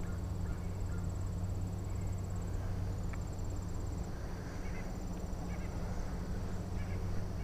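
A high, rapidly pulsing insect trill, such as a cricket's or katydid's, coming in stretches a second or two long with short breaks, over a steady low hum.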